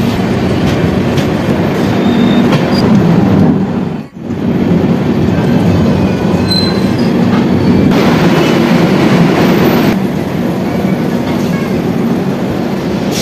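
Running noise of a passenger train's LHB coaches rolling through a station yard: a steady wheel-on-rail rumble with a few faint high wheel squeals. It breaks off sharply for a moment about four seconds in.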